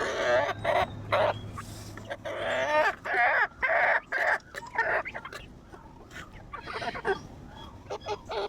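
Darag native chickens clucking and calling, a quick run of short calls that is loudest about three to five seconds in, then fewer and quieter calls.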